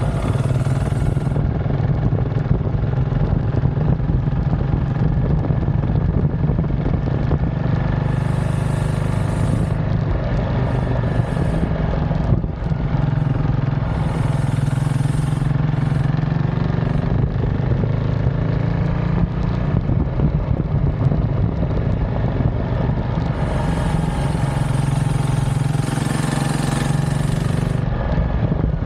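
KTM 690 SMC R's single-cylinder engine running through an aftermarket DVR exhaust as the bike is ridden, its note rising and falling with the throttle, with a brief dip about twelve seconds in.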